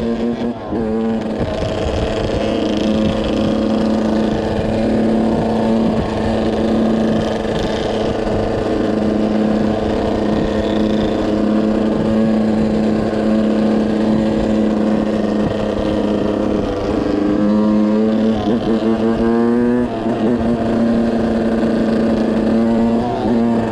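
Yamaha YZ125 two-stroke dirt bike engine running hard at a steady high pitch, briefly wavering up and down in pitch with the throttle late on.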